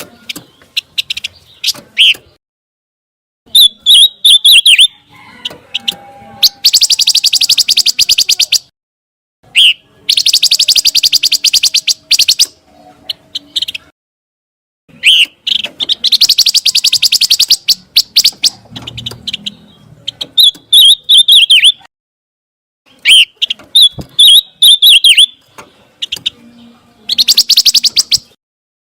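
Recorded song of the bird known to Indonesian bird keepers as pancawarna: phrases of sharp chirping notes alternate with fast, buzzy rattling trills, each lasting a second or two, with short pauses between them.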